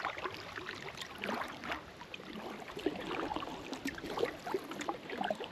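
Water lapping and dripping around a kayak: small, irregular splashes, drips and gurgles.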